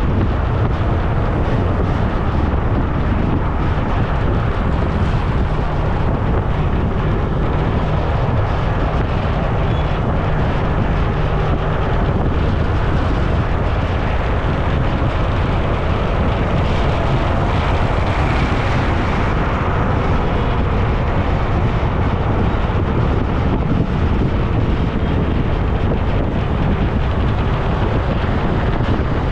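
Steady wind rushing over an action camera's microphone while riding along a road: a dense, unbroken low rumble with road noise mixed in.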